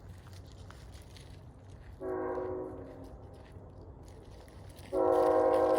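CSX P001 Santa Train's locomotive air horn sounding a chord of several steady notes. A short blast comes about two seconds in, then a louder long blast starts near the end, over a faint low rumble.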